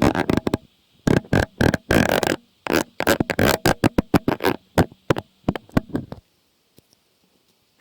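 Close-miked ASMR trigger sounds: rapid clustered runs of clicks and crackles that stop about six seconds in, leaving only a few faint clicks.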